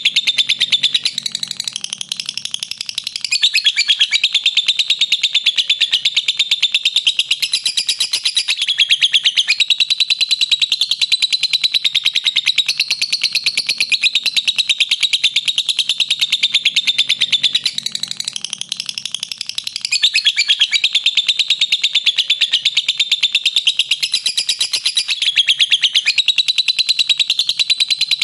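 Lovebird chattering in a long unbroken 'ngekek': a rapid, high-pitched stream of clicking trills with no pause for breath, the sustained chatter that Indonesian keepers prize in a lovebird. It softens briefly twice, about two seconds in and again past the middle, then carries straight on.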